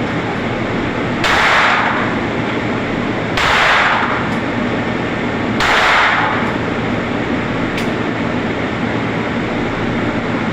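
Shots at a shooting range: three loud reports about two seconds apart, each with a short ringing tail, then a fainter sharp crack, over steady background noise.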